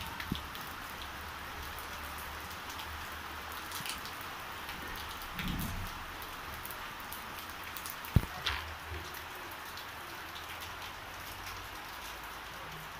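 Steady rain pattering on wet ground and foliage, with a single sharp knock about eight seconds in.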